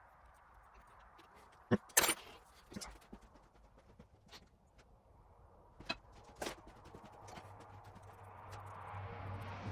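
Hand cleaning inside a drill press spindle's arbor hole: soft scrubbing and rubbing, with scattered sharp metal knocks and clicks from the parts and tools being handled, the loudest two close together about two seconds in.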